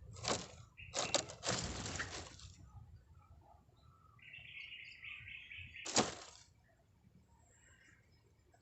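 Small birds at a nest: short bursts of wing flapping, the longest about a second in, and in the middle a rapid run of high chirps lasting a second and a half.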